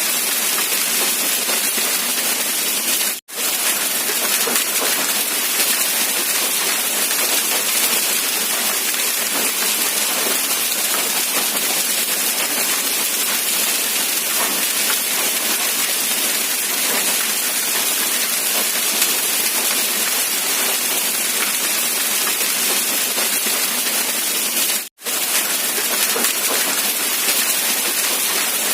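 Steady rain falling, an even dense hiss with no pattern. It cuts out completely for an instant twice, about three seconds in and again a few seconds before the end.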